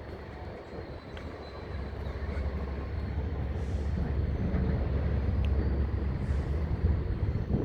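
Hitachi 870 excavator's diesel engine under load, a heavy low rumble that grows louder about two seconds in.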